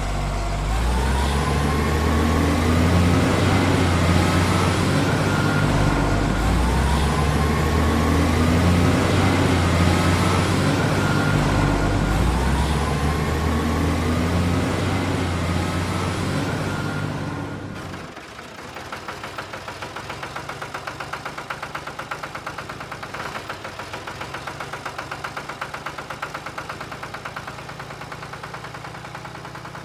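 A truck engine revving repeatedly, each rev rising in pitch about every five seconds. About 18 seconds in it drops abruptly to a quieter, fast, even chugging idle.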